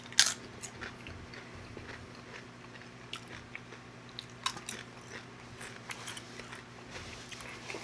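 Tortilla chips being bitten and chewed close to the microphone, with crisp crunches. One loud crunch comes just after the start, then scattered smaller crunches.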